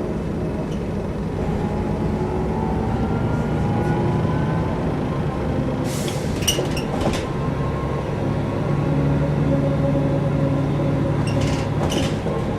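Mercedes-Benz O405 N² city bus heard from on board while driving: the diesel engine and Voith automatic gearbox run steadily, their pitch rising as the bus pulls away. Short clusters of clicks and rattles come about halfway through and again near the end.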